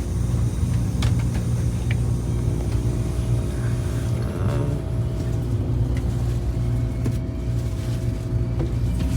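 Steady low rumble and hum inside a high-speed train carriage, with a few faint knocks.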